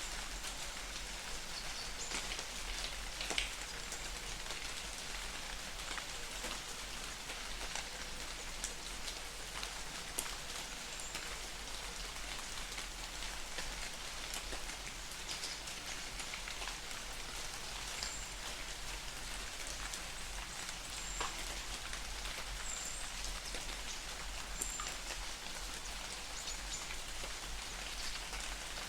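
Light rain falling in a forest: a steady patter with scattered individual drops landing close by, a few of them louder, around 3 and 10 seconds in.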